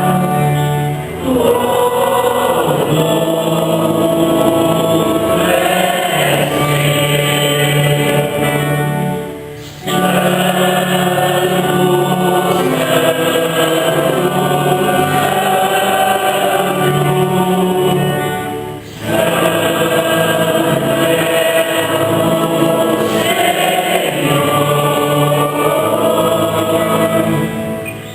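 Church choir singing a Mass hymn in long sustained phrases, with short breaks between phrases about every nine seconds.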